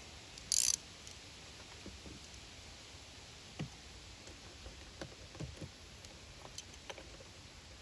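Faint, scattered clicks and light taps of small carburetor parts being handled and fitted by hand as the float bowl and its bolt go back on, with a brief hiss about half a second in.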